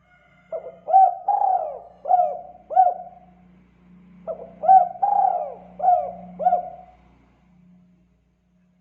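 Spotted dove (tekukur) cooing its 'kuk 2' call: two phrases of about six coos each, the second starting about four seconds in. It falls silent about a second before the end.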